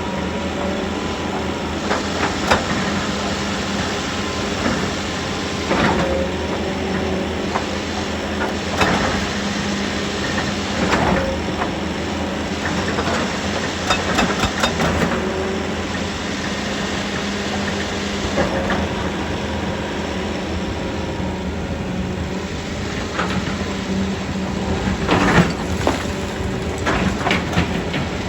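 Heavy machinery's diesel engine running steadily, with scattered sharp clanks and knocks, several in a quick cluster near the end.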